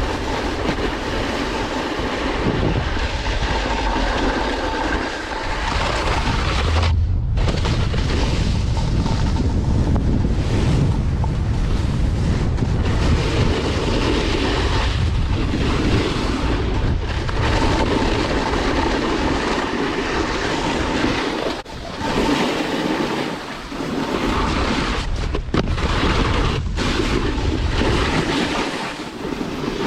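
Wind rushing over the microphone and a snowboard sliding and scraping over snow during a fast run. The steady noise drops out briefly about a quarter of the way through and again about two-thirds in.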